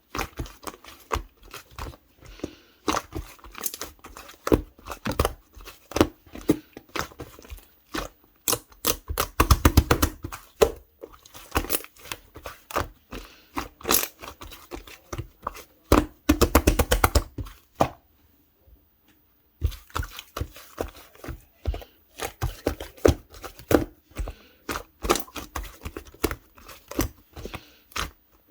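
Hands squishing, poking and stretching clear yellow slime, making dense sticky clicks and small pops. Two bursts of rapid clicking stand out, and the sound stops briefly about two-thirds of the way through.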